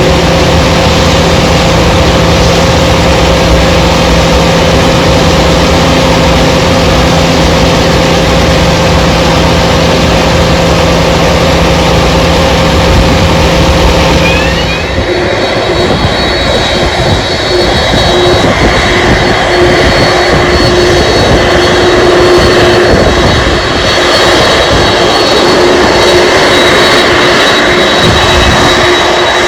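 Jet aircraft engines running loud and steady. About halfway through the sound changes: the low hum drops away and a higher whine comes in.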